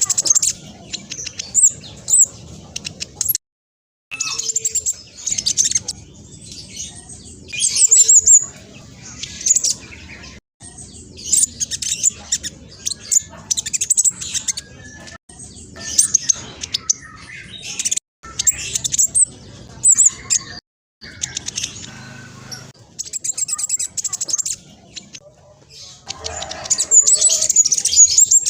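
Black sunbird singing a fast, loud song of high, sharp chirps and trills, delivered in bursts a second or two long with short breaks between them.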